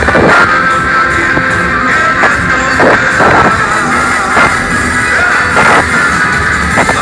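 A live cuarteto band playing loudly, with drum hits landing throughout over a dense, steady wash of instruments.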